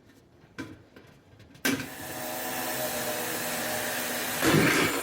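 Power drill running steadily for about three seconds as it bores a hole, turning louder and harsher near the end.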